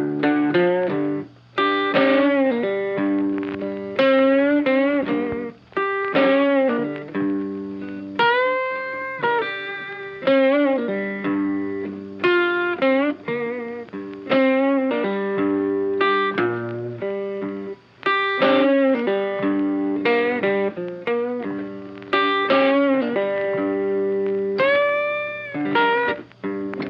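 Guitar music: a plucked melody over sustained lower notes, with notes bent up in pitch, most clearly about a third of the way in and near the end.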